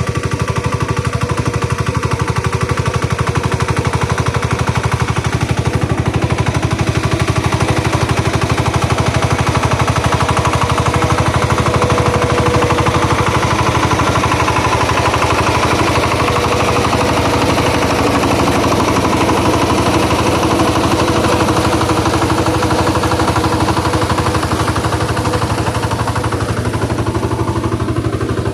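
Engine of a ploughing machine running steadily and loudly, with a rapid, even chugging beat.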